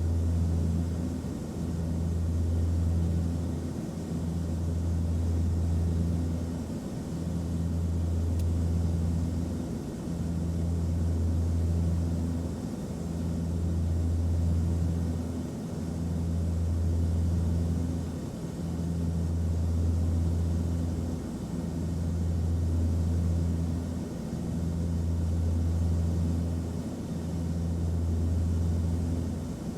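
Aircraft cabin noise: a steady low drone with a faint hiss above it, its deep hum swelling and dipping about every three seconds.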